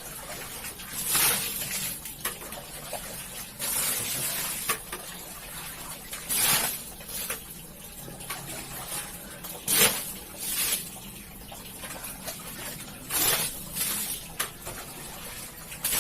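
Water splashing and sloshing in short, irregular bursts a second or a few seconds apart, from a carpet mat being washed by hand.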